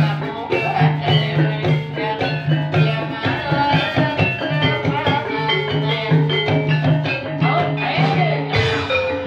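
Live ebeg dangdut kreasi music: drums and pitched instruments playing a continuous piece with a steady, repeating beat.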